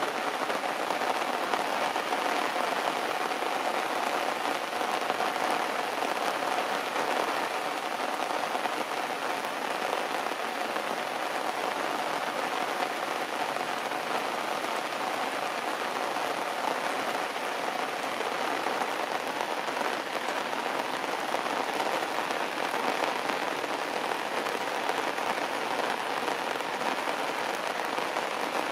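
Heavy rain falling steadily on stone steps and leafy plants.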